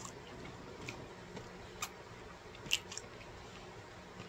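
A man chewing a mouthful of taco, with a few faint wet mouth clicks, about one a second; the sharpest comes about two-thirds of the way through.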